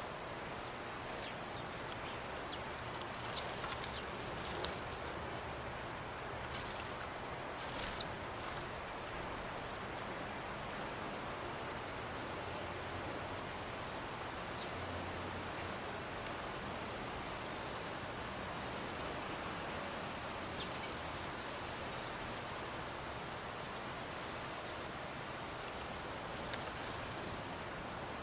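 Small birds chirping: short, high notes repeat roughly once a second, with a few sharp falling calls in the first several seconds, over a steady outdoor background hiss.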